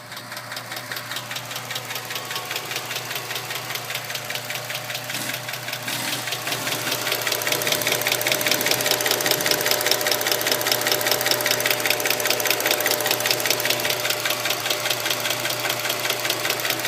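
Chrysler 2.7-litre V6 in a 2007 Dodge Magnum running, with a rapid, steady top-end ticking that grows louder about six seconds in. The owner suspects lifter noise.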